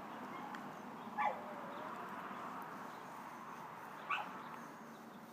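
A dog whimpering twice, two short whines that fall in pitch about three seconds apart, over a steady hiss.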